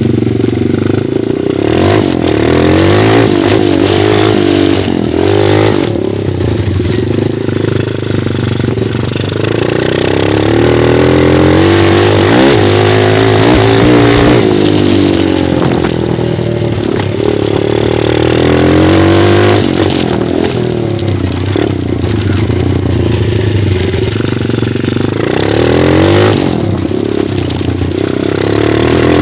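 Small 125cc single-cylinder dirt bike engine being ridden, its revs rising and falling again and again as the rider accelerates and lets off.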